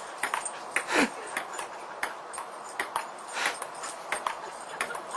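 A dog gives a short vocal sound whose pitch falls, about a second in, amid a run of quick sharp clicks and taps.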